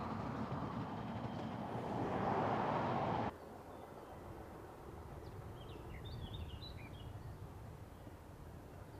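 Narrow-gauge railway carriages rolling past close by, a steady noise of wheels on track that cuts off abruptly about three seconds in. Then quiet outdoor ambience, with a small bird chirping briefly in the middle.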